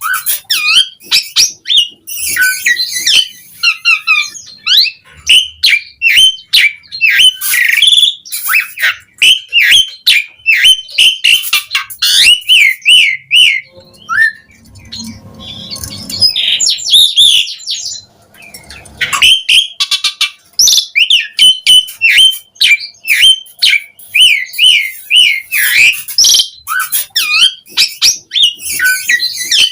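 Asian pied starling singing a fast, varied run of whistles, chirps and harsh squawky notes, with a sparser, quieter stretch about halfway through.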